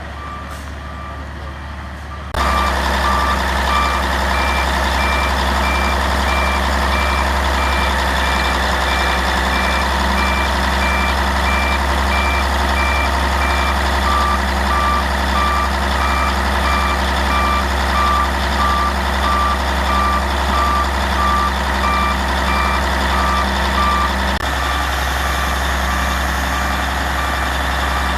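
1982 Caterpillar 16G motor grader's diesel engine running, with its backup alarm beeping in a steady repeating pattern, the sign the grader is in reverse. Everything grows abruptly louder a couple of seconds in, and the beeping fades near the end.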